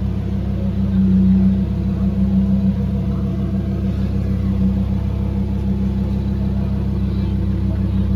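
A car engine idling steadily, holding one even low note with no revving.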